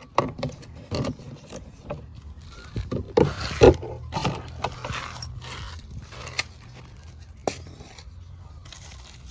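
Close handling noise: irregular scrapes, knocks and rustling, loudest about three and a half seconds in.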